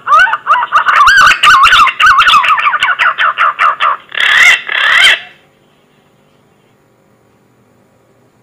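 Punai (green pigeon) lure call: a quick run of wavering, fluty whistled notes, ending in two harsher notes about four and five seconds in, after which it stops.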